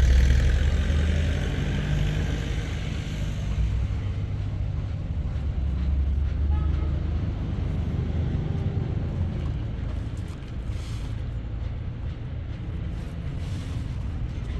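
A motor vehicle running: a steady low engine drone, loudest at the start and easing off slightly.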